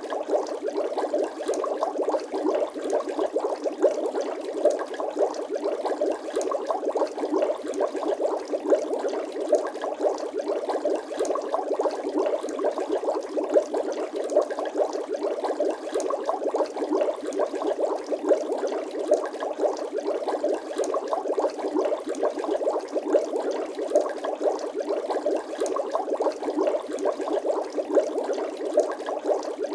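Water bubbling sound effect: a dense, steady stream of small bubbles popping and gurgling, with no break.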